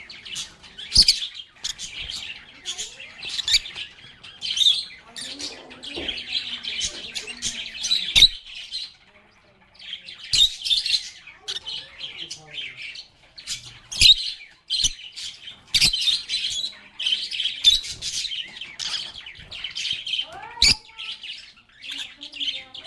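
Several lovebirds (Agapornis) chattering with rapid, high chirps and squeaks, with sharp clicks mixed in. A brief lull comes about nine seconds in.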